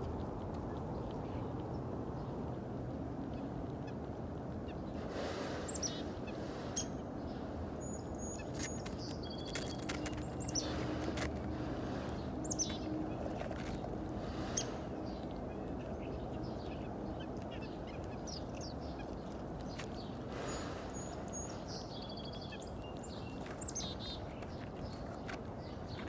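Small wild birds giving short high chirps and calls every few seconds, some sweeping downward in pitch, over a steady low background rumble.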